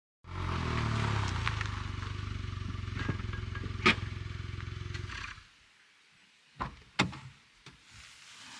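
A vehicle engine idling steadily, then shut off about five seconds in, followed by two sharp knocks.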